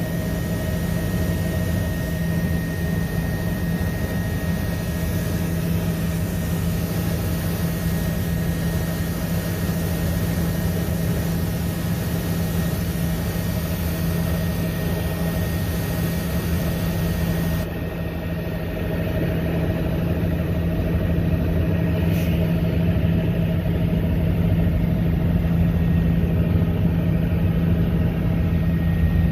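Helicopter engine and rotor running steadily, heard from aboard: a constant low drone with a steady higher whine over it. About two-thirds of the way through, the hiss on top drops away abruptly.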